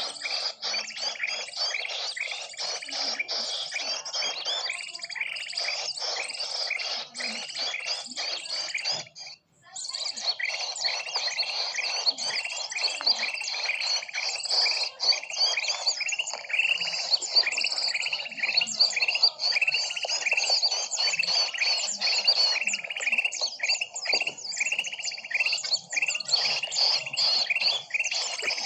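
Bird-lure recording of many small birds chirping and twittering densely, with rapid high notes overlapping continuously. It cuts out briefly about nine seconds in, then resumes.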